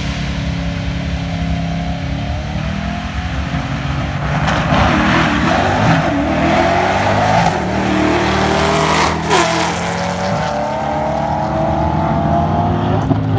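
Drag-race car engines running and revving, louder for a stretch about four to seven seconds in.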